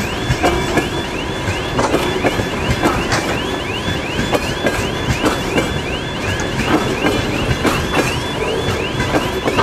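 Open-top gondola freight wagons rolling past, a steady rumble with wheels clicking over the rail joints. Over it, an electronic warning signal repeats a short rising tone about three times a second.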